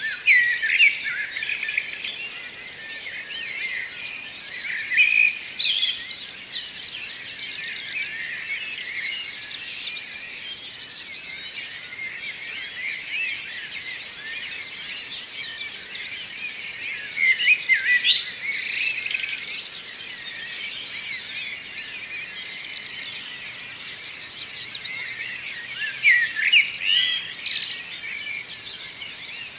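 Dawn chorus: many songbirds singing at once, a dense layer of chirps and warbling phrases. Louder, nearer song phrases stand out near the start, about five seconds in, around eighteen seconds and near the end.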